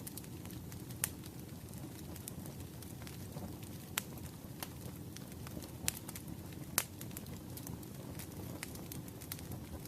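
Wood fire burning with a steady low rumble and scattered sharp crackles and pops of firewood, a few louder pops standing out at about 1, 4, 6 and 7 seconds in.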